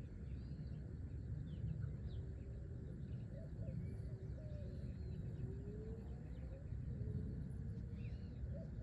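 Outdoor night ambience: a steady low rumble, with faint chirping calls and faint wavering tones in the background.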